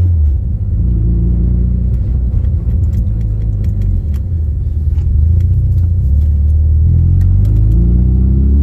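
Subaru EJ257 turbocharged flat-four running under light load while driving, heard from inside the cabin with road noise. Its revs rise near the end as the car accelerates.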